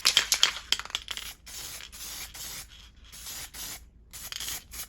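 Bicycle brake calipers being cleaned: about a second of fast scrubbing, then a run of short hissing strokes, about three a second.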